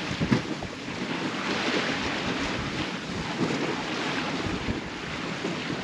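Wind buffeting the microphone and water washing along the hull of a small sailboat under sail. There are a couple of short knocks right at the start.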